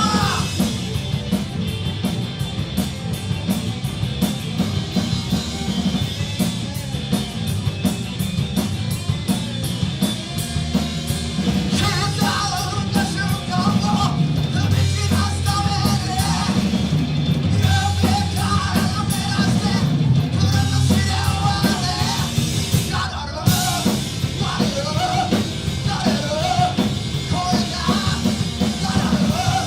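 Live rock band playing with drum kit, bass and electric guitars; a vocal line comes in about twelve seconds in.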